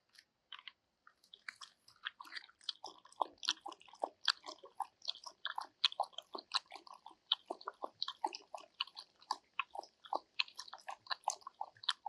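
Close-up chewing and crunching, with irregular crisp bites several times a second that start about half a second in.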